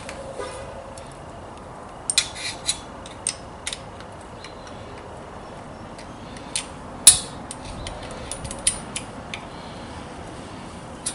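Scattered light metallic clicks and clinks of hand tools and small metal hardware as a spacer and screw are fitted to fasten a DRO scale bracket to a lathe carriage. One sharper click comes about seven seconds in.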